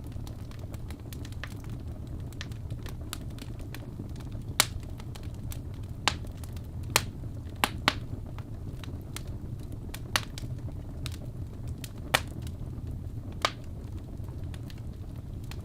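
Wood fire burning in a fireplace: a steady low rumble of flame with scattered crackles and several sharp pops from the burning logs, the loudest about four and a half seconds in.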